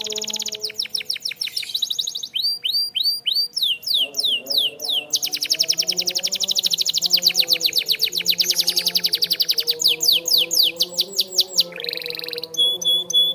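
Canary singing a continuous song of fast trills: rapidly repeated, downward-sweeping notes that switch to a new trill pattern every second or two, with fainter steady low tones underneath.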